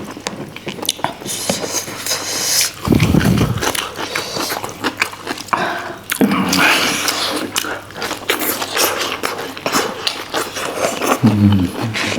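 Close-miked chewing and lip-smacking of people eating oily fish, with many wet clicks and smacks, a low dull thud about three seconds in and a short low murmur near the end.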